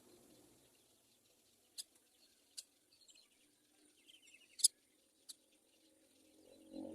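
Faint, high cheeps of myna nestlings in the nest, with a few sharp clicks, the loudest about two-thirds of the way through.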